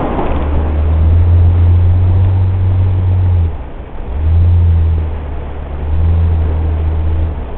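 Nissan Elgrand's engine heard inside the cabin, a low droning hum that swells and drops away three times, over steady tyre and road noise.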